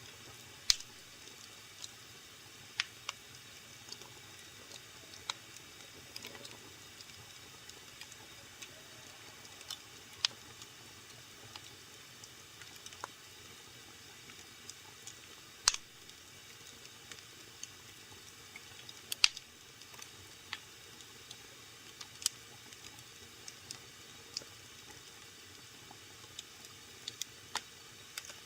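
Wood fire burning in a fireplace: a low steady hiss with sharp crackles and pops at irregular intervals, a few much louder than the rest.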